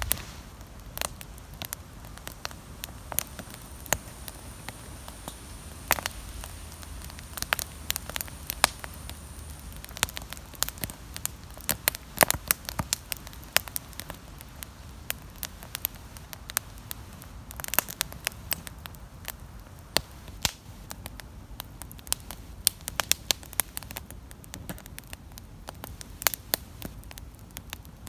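Wood campfire crackling, with a constant run of irregular sharp pops of varying strength over a low steady background.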